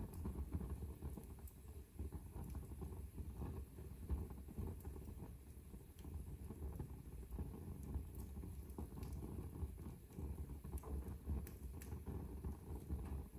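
Wood fire burning in a fireplace: a low steady rumble of the flames with scattered crackles and pops throughout.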